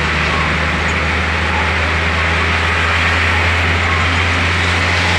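A bus engine's steady low drone and an even hiss of road noise, heard from inside the moving bus.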